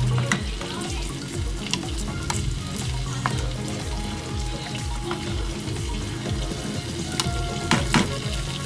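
Bitter melon and egg sizzling as they stir-fry in a frying pan, with a wooden spatula scraping and knocking against the pan and a couple of sharper knocks near the end.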